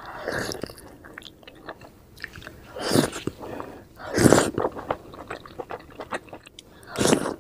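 Close-miked biting and chewing of steamed vegetable momos (dumplings): wet mouth sounds and small clicks, with four louder bites about every two seconds.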